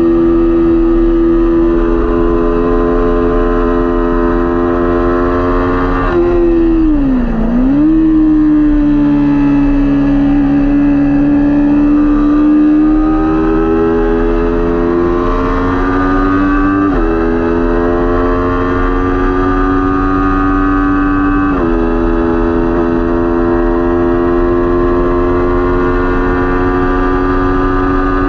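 Kawasaki Ninja 400 parallel-twin engine at race pace, held at high revs. About seven seconds in its pitch dips sharply and comes straight back up as the bike slows for a corner. It then climbs steadily under throttle, with two upshifts later on, and settles at high revs again.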